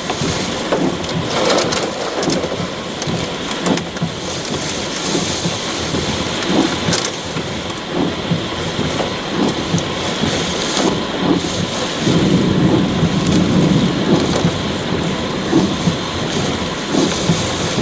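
Severe thunderstorm with high winds and rain: a steady loud rush of wind and rain with scattered sharp ticks, and a louder, deeper surge for a couple of seconds about twelve seconds in.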